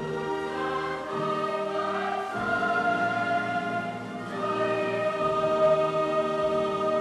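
Choir singing with an orchestra, slow held chords that change every second or two.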